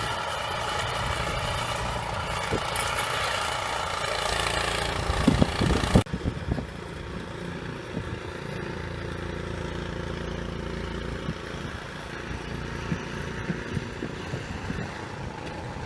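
An engine running steadily, with a few knocks about five to six seconds in. The sound changes abruptly about six seconds in and goes on quieter after that.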